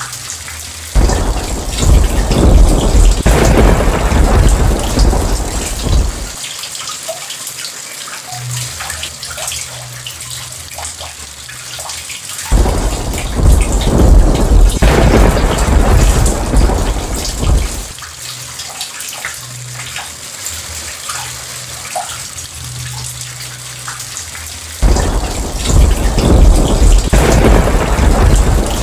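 Steady heavy rain with three long rolls of thunder, each about five seconds. The rolls come about a second in, around the middle and near the end, and each one starts suddenly with a deep rumble.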